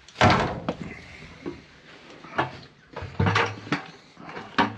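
A series of knocks and clatters from handling tools and plumbing parts, the loudest right at the start, then several smaller knocks.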